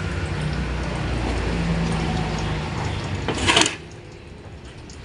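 Workshop noise during a transmission teardown: a steady low mechanical hum. It ends in a short, loud, hissing burst about three and a half seconds in, after which it drops away.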